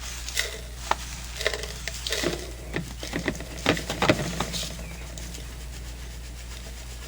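Handling noises from a bag of ground coffee and an empty coffee can: an irregular run of rustles, scrapes and clicks that dies away after about four and a half seconds.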